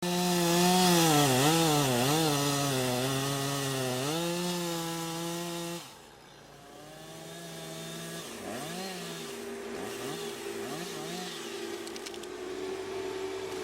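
Two-stroke chainsaw running, its engine revving up and down several times. About six seconds in it gives way abruptly to a quieter engine sound whose pitch rises and falls.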